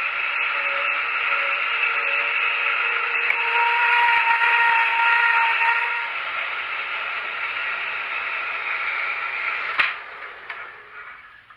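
Power saw cutting through a steel bar to part off T nuts: a steady cutting sound with a faint whine in it, stopping with a click about ten seconds in and then fading away.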